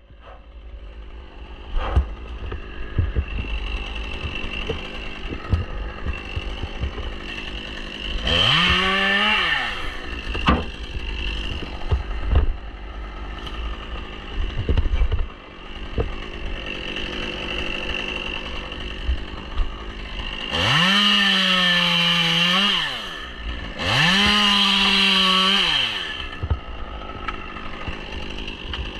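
Chainsaw revved up to full throttle three times, for about two seconds each: once about eight seconds in, then twice in quick succession past the twenty-second mark. It idles in between.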